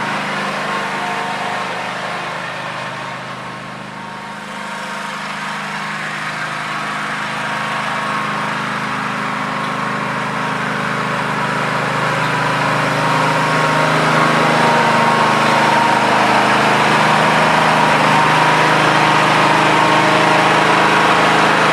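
Garden tractor's small gasoline engine running with a steady drone; it dips about four seconds in, then grows louder through the second half.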